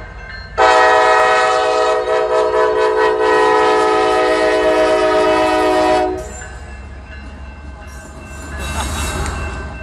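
A freight locomotive's multi-chime air horn sounds one long, loud blast of about five seconds, then cuts off, leaving the low rumble of the diesel locomotive, which swells slightly near the end.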